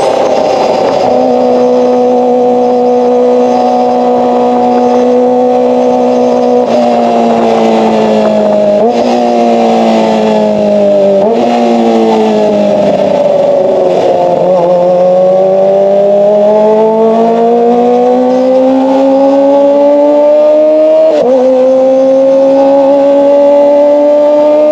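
Kawasaki ZX-25R's 250 cc inline-four engine through an SC-Project exhaust, ridden at high revs: held steady, then falling as it slows, with two quick downshifts, then climbing under acceleration with one upshift near the end.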